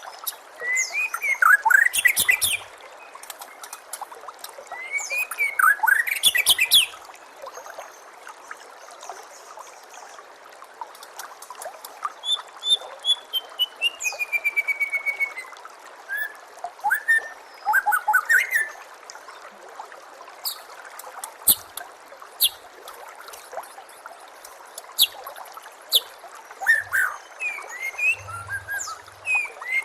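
White-rumped shama (murai batu) singing: loud bursts of rich whistled phrases and sharp chirps, with a long descending run of notes in the middle. A steady trickle of water runs underneath.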